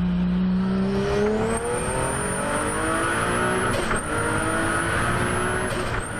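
Turbocharged car engine accelerating hard, its pitch climbing steadily, with a high thin turbo whistle held above it. The sound breaks off briefly about four seconds in and again near the end, then climbs on.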